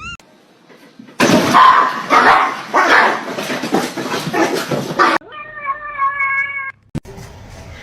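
A pet animal making noise: about four seconds of loud, harsh, noisy sound, then a steady, held, pitched cry lasting over a second, which ends abruptly.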